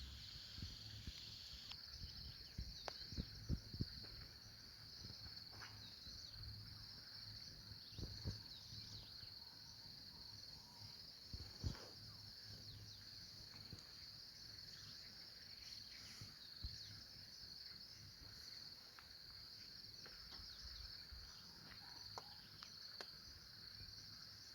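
A steady, high-pitched insect chorus of crickets shrilling continuously, with a faint low hum beneath and a few scattered soft clicks and knocks.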